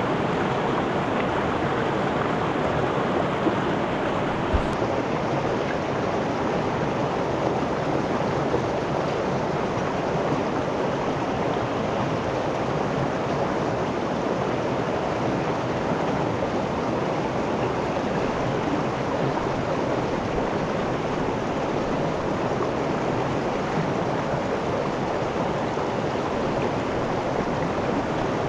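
River water rushing steadily, with one brief knock about four and a half seconds in.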